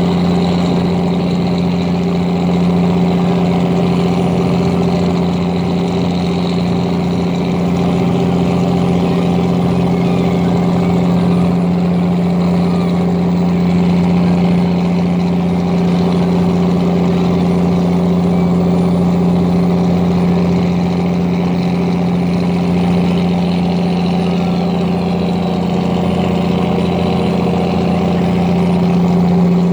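A large engine running steadily at a constant speed, giving a loud, unchanging low hum.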